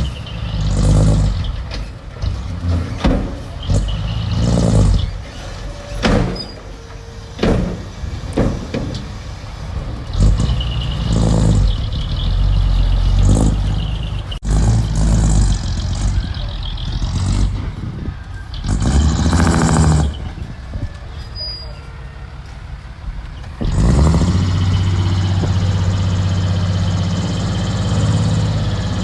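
Diesel engines of earthmoving machinery working, rising and falling in loudness and broken by many short noisy bursts. About three-quarters of the way through, a louder, steady engine note takes over.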